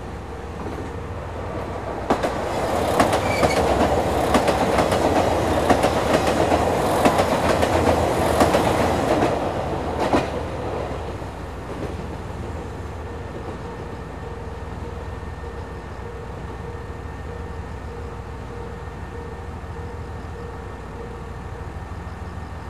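A diesel limited-express train passes through on the other track, its wheels clacking over rail joints and points. The pass starts about two seconds in and dies away by about ten seconds. Throughout, a standing diesel railcar's engine idles with a steady hum.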